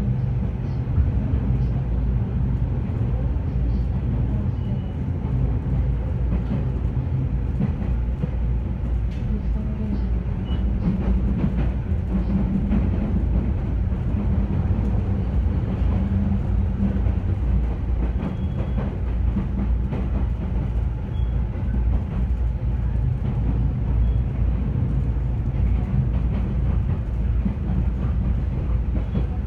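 Inside a JR E217 series electric commuter train running on the rails: a steady low rumble with scattered light clicks from the wheels over rail joints and points.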